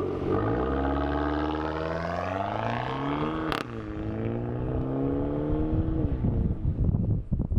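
Dodge Dart's 1.4 turbo four-cylinder, straight-piped with the resonator and muffler deleted, accelerating with rising pitch. It shifts up about three and a half seconds in, climbs again, then eases off about six seconds in. Wind noise buffets the microphone near the end.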